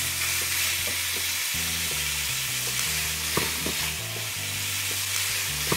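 Diced chicken breast and onions sizzling steadily in a hot frying pan, with a few light clicks and scrapes of a metal utensil against the pan as the chicken is stirred and broken up.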